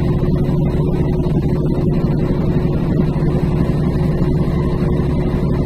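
Truck's diesel engine running steadily on a downhill, heard from inside the cab as a constant low drone with a steady hum above it.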